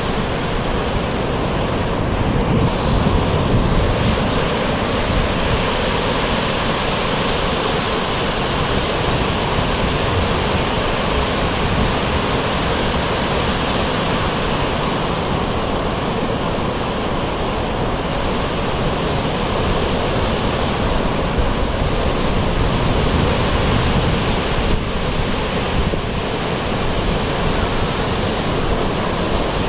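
A steady, loud rush of sea surf breaking on a sandy beach, with wind rumbling on the microphone.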